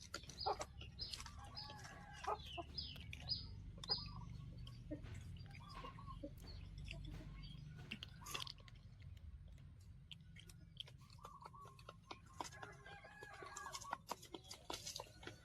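Chickens clucking in a run of short calls, mixed with many sharp clicks and taps.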